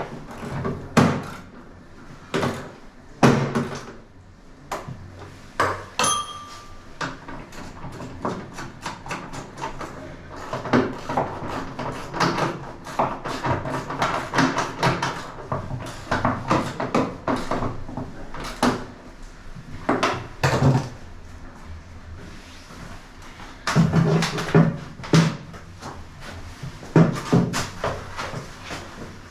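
Irregular knocks and clatter of washing-machine parts and tools being handled during the repair, with a short electronic beep about six seconds in.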